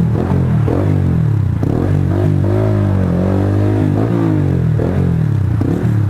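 Honda CBR125R's single-cylinder 125 cc four-stroke engine under way at low speed while filtering through traffic. The revs rise and drop back several times in quick succession as the throttle is opened and closed.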